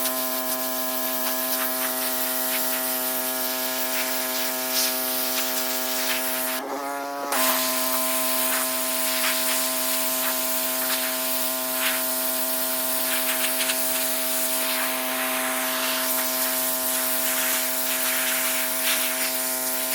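Pressure washer spraying: the pump motor runs at a steady pitch under a loud hissing spray. Around seven seconds in the spray stops for under a second and the motor's pitch wavers, then the spray resumes.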